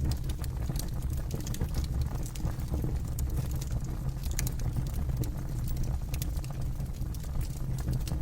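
A campfire burning steadily, with a low rumble of flame and scattered sharp crackles and pops from the burning wood.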